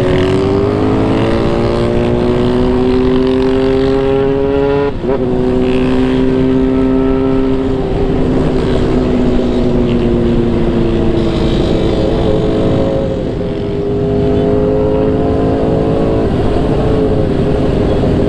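Motorcycle engine under way, heard from the bike: the revs climb over the first few seconds, there is a quick gear change about five seconds in, then the engine holds steady, eases off briefly past the middle and picks up again near the end. Wind rumble sits underneath.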